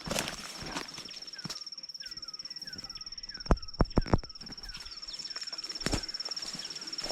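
Outdoor birds calling in repeated short falling chirps over a steady, high, rapidly pulsing trill. Four sharp clicks fall close together a little after the middle and are the loudest sounds.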